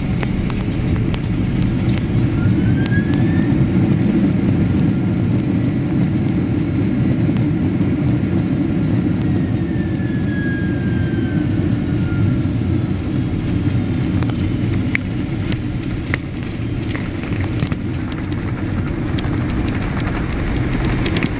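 Boeing 777-300ER cabin noise: a steady low rumble. Scattered light clicks and two faint whines glide through it, one rising and one falling.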